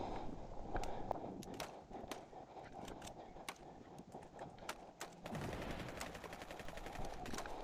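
Airsoft replicas firing: scattered sharp cracks of single shots and short bursts at irregular intervals.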